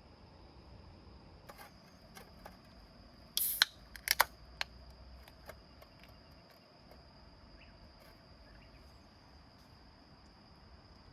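A steady, thin, high-pitched insect trill runs throughout. A few sharp clicks and knocks come between about a second and a half and five seconds in, the loudest a short harsh burst around three and a half seconds.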